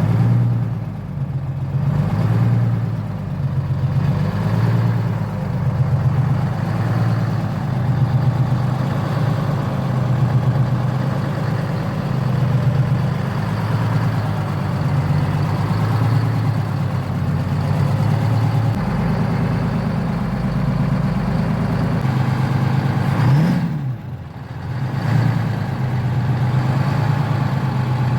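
Rat rod truck's engine running just after a cold-ish start, idling with an uneven, pulsing beat. Near the end it is blipped twice, the pitch rising and falling back each time.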